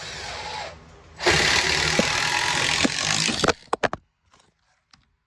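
A power drill driving a screw into wood for about two seconds, followed by a quick clatter of something falling over.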